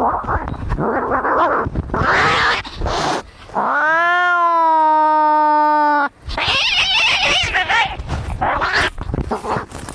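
Cats fighting: harsh hissing and growling, then a little over three seconds in one long yowl that rises, holds steady for about two seconds and cuts off sharply, followed by more hissing and growling.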